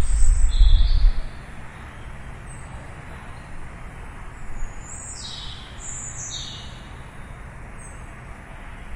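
Birds chirping: about five short, high calls that sweep downward in pitch, two near the start and more in the second half, over a steady hiss of distant city traffic. A loud low rumble fills the first second.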